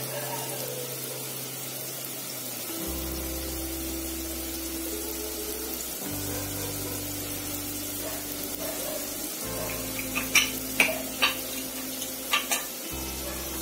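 Litti dough balls frying in a little hot refined oil in a pressure cooker, giving a steady low sizzle, under background music of slow held low notes that change about every three seconds. Several sharp clicks and knocks come near the end.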